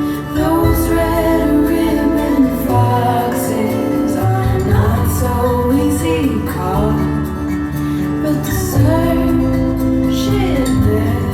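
A pop song with a female singer and instruments, played through a pair of ELAC BS53 bookshelf speakers and heard in the room.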